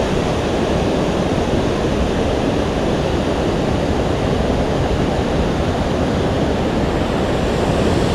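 Steady rush of flowing creek water, an even noise without breaks.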